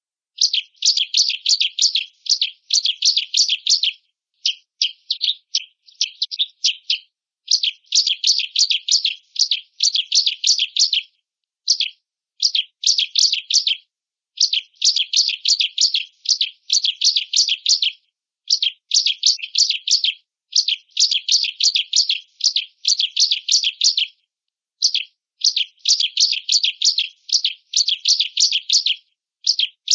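Bar-winged prinia (ciblek) singing: rapid, high-pitched chattering trilled phrases of one to four seconds each, repeated over and over with short silent gaps between them.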